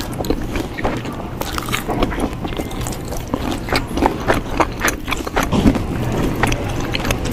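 Close-up chewing and mouth sounds of a person eating, with irregular wet clicks and smacks, and plastic utensils knocking in a paper bowl, over a steady low background hum.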